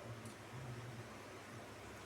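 Faint eating sounds over room hiss: a light click of the mouth about a quarter second in and a soft, low, closed-mouth hum.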